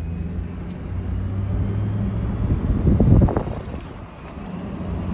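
Car driving, with a steady low engine and road hum inside the cabin and some wind noise; a brief louder rumble about three seconds in.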